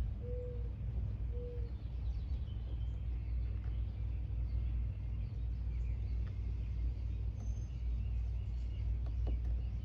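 Outdoor ambience: a steady low rumble with faint bird chirps, and a few short whistled bird notes in the first couple of seconds.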